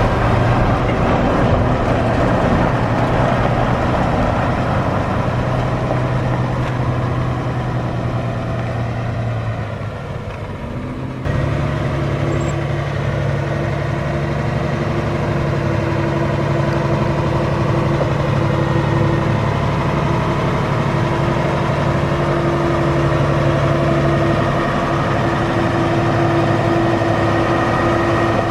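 A motor vehicle's engine running steadily. About eleven seconds in, the sound changes abruptly to a steadier, even drone with a higher hum above it.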